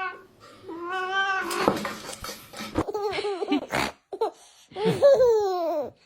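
Domestic cat meowing again and again in drawn-out calls. A long call comes about a second in, then a run of shorter meows, and a long call falling in pitch near the end.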